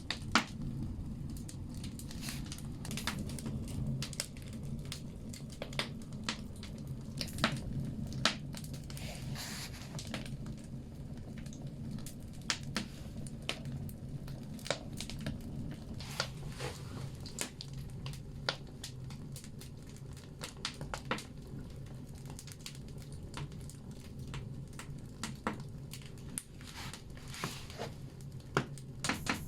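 Firewood burning in a banya stove, crackling with irregular sharp pops and snaps over a steady low rumble of the fire.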